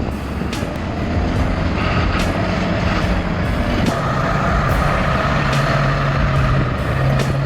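Heavy truck engine running loudly, its low steady hum growing stronger about halfway through, with a few sharp clicks over it.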